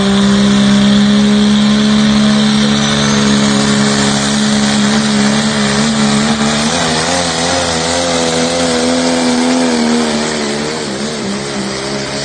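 A pulling tractor's engine running hard at high revs under load, its pitch steady at first and then wavering up and down from about halfway through, easing off slightly near the end.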